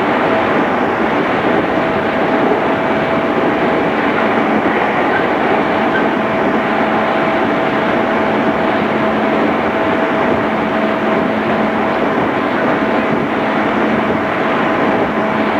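JR East 211 series electric train running at a steady speed: an even rumble of wheels on rail with a constant hum that neither rises nor falls.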